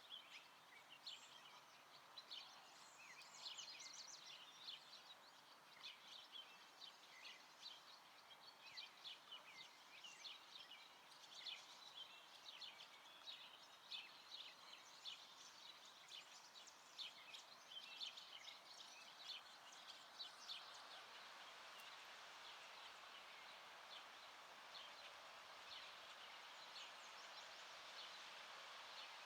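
Faint chorus of small birds chirping and singing over a steady outdoor hiss. The chirps thin out after about twenty seconds as the hiss becomes steadier.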